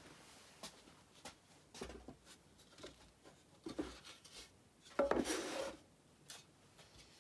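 Light rubbing, scraping and small knocks of wooden guitar parts being handled, with a louder scrape about five seconds in.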